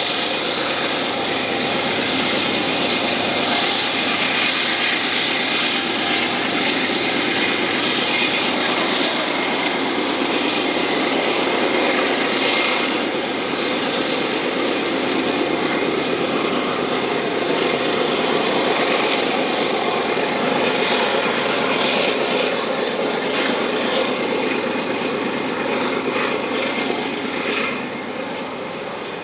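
Freight train passing: diesel locomotives running and loaded coal cars rumbling over the rails on a curve. It is loud and steady and drops off near the end as the train moves away.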